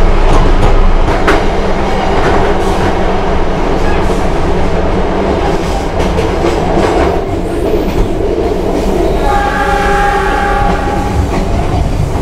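KA Cikuray passenger train running, heard from on board: a steady rumble with a few sharp wheel clicks early on. About nine seconds in, the train horn sounds for roughly two seconds.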